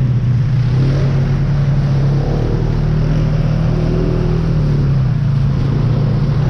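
ATV engine running at a fairly steady pitch.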